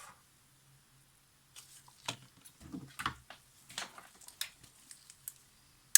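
Faint scattered clicks and taps of small tools and parts being handled on a workbench, starting about a second and a half in, over a faint steady hum.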